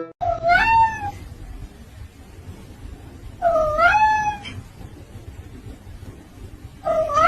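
Cat meowing three times, each meow drawn out for about a second with a rising then falling pitch, spaced about three seconds apart; the third begins near the end.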